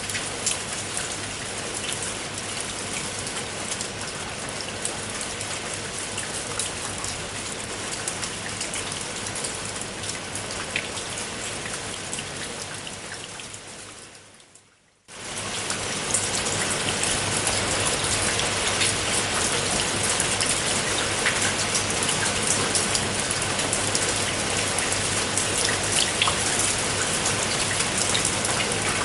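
Steady rain falling on a tiled roof, a dense hiss with scattered sharp drop ticks. About halfway through, the rain fades away almost to silence, then comes back suddenly and a little louder.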